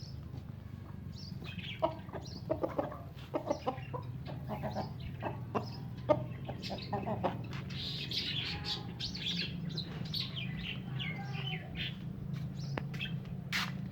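Backyard hens clucking while feeding, with smaller birds chirping, busiest a little past the middle. A steady low hum runs underneath.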